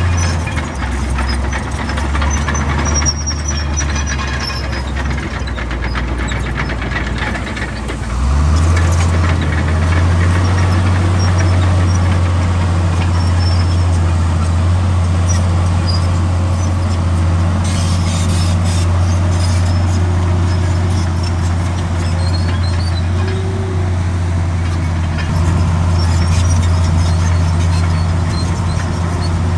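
Komatsu D65 bulldozer's diesel engine running steadily under load, rising in pitch and loudness about eight seconds in as it works harder. Faint high squeals come in the first few seconds.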